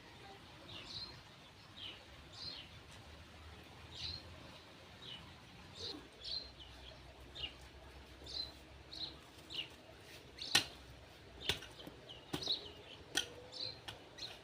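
Birds chirping, short high calls repeated several times a second. In the second half come four sharp clicks or knocks, the loudest about ten and a half seconds in.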